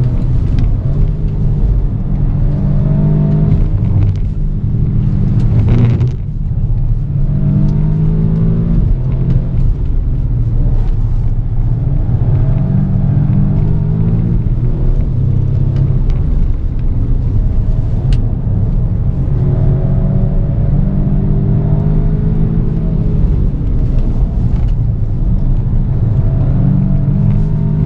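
ABT-tuned Audi S3 8V's turbocharged 2.0-litre four-cylinder engine pulling hard at high revs under mostly full throttle, heard from inside the cabin. Its pitch climbs and drops again and again, with a brief dip in loudness about six seconds in.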